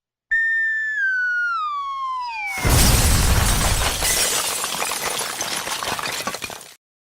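Sound-effect whistle falling steadily in pitch for about two seconds, then a loud crash that dies away over about four seconds, like something dropping and smashing.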